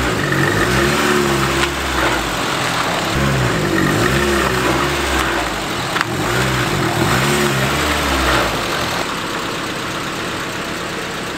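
Four-cylinder engine of an off-road long-travel Mazda Miata revving up and down several times as the car is driven, each rev a rise and fall in pitch. After about nine seconds it settles into steadier running.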